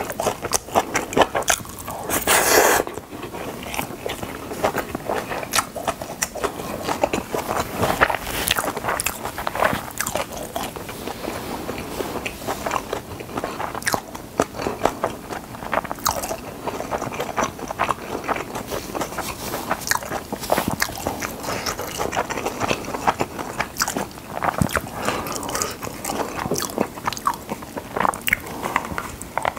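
Close-miked chewing of a mouthful of Spam kimchi fried rice: steady, irregular wet mouth clicks and smacks, with a spoon now and then scraping the plate.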